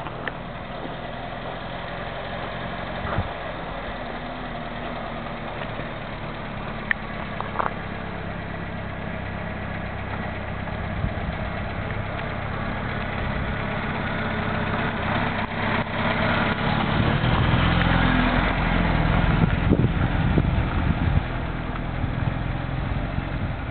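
A SEAT 124 saloon's engine running as the car is driven slowly, growing louder from about halfway through as the car comes close.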